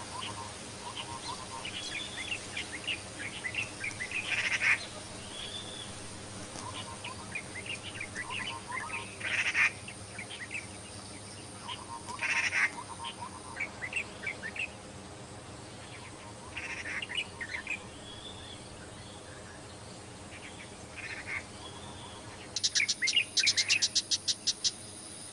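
Wild birds calling: short arched chirps repeated every second or so, with a few louder calls. Near the end comes a fast chattering run of rapid notes.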